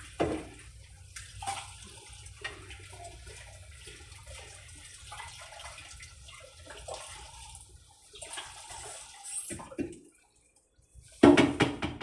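Water running from a tap while something is rinsed under it, with small scattered knocks; the water stops about ten seconds in, and a loud clatter follows near the end.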